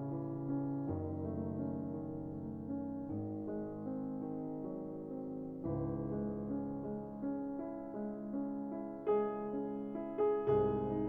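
Background music: slow, gentle piano, notes held and changing every second or two, with a few firmer struck notes near the end.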